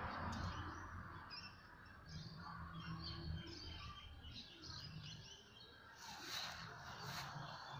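Faint birdsong: many short chirps from small birds, with a brief rustling noise about six seconds in.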